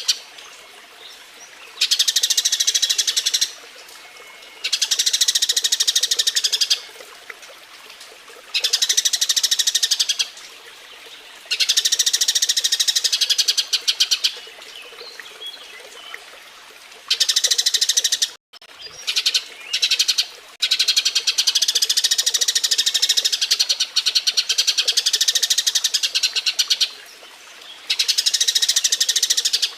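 Eurasian tree sparrow chattering in fast, dense runs of chirps, repeated in bouts of about two to three seconds with short pauses between: the excited calling of a sparrow in mating display.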